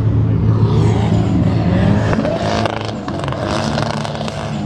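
Car engines running: a steady low engine drone, with an engine revving up and down over roughly the first two seconds, followed by a noisier stretch.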